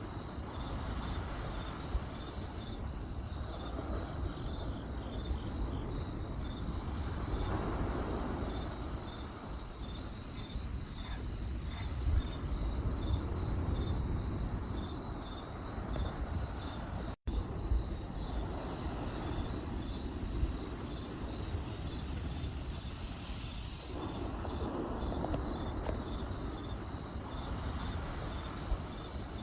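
Crickets chirping in a steady, pulsing high trill over the low rushing of a campfire, with a few sharp crackles and pops from the burning wood. The sound cuts out for an instant a little past halfway.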